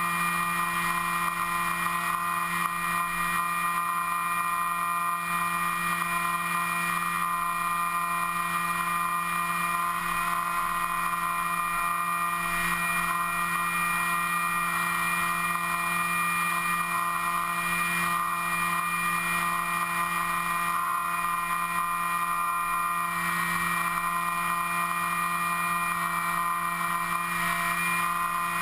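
Steady motor and propeller whine of an FPV model aircraft, heard from its onboard camera, over a light rush of air. The pitch shifts slightly a few times as the throttle changes.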